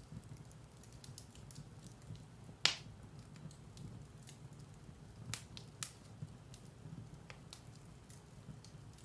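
Firewood burning in a fireplace: a low steady rumble of flame with scattered sharp crackles and pops, the loudest about two and a half seconds in and a few more around five to six seconds.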